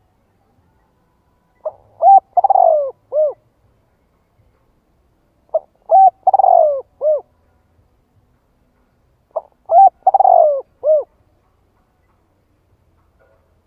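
Spotted dove cooing: three song phrases about four seconds apart. Each phrase is a quick short note, a longer falling coo and a short closing coo.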